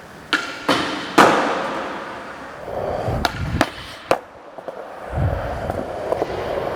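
Skateboard attempt on concrete: three sharp wooden clacks of the board being popped and hitting the ground in the first second and a half. The wheels roll, with heavy thuds of board and wheels slamming down a few seconds in and a low rumble near the end.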